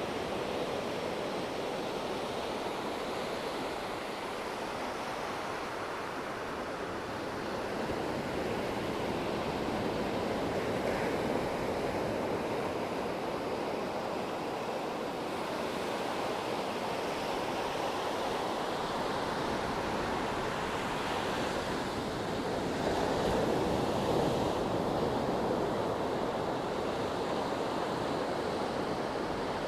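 Sea waves washing on the shore: a continuous surf noise that swells and eases slowly, loudest about three quarters of the way through.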